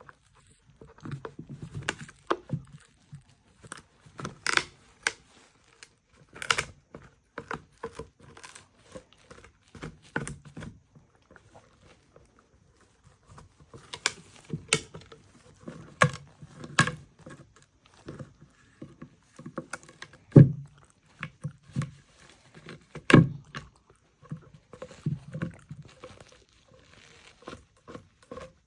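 A dog eating: irregular chewing and crunching with scattered clicks and knocks, and two louder knocks late on.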